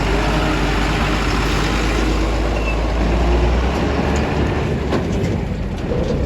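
Heavy diesel machinery engine running loud and steady with a deep rumble; the deepest part of the rumble eases off about two-thirds of the way in.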